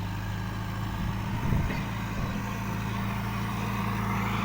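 Backhoe loader's engine running steadily with a low, even hum, growing a little louder near the end.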